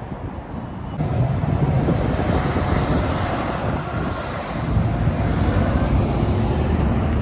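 Road traffic noise from a passing semi-truck: steady engine rumble and tyre noise that jumps up abruptly about a second in, with wind on the microphone.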